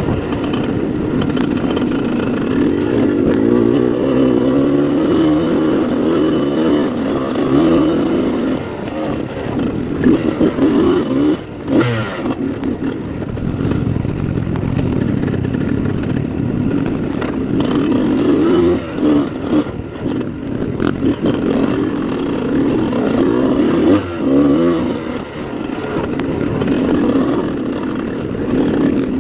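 Dirt bike engine running under throttle, its revs rising and falling, with a sharp knock about twelve seconds in.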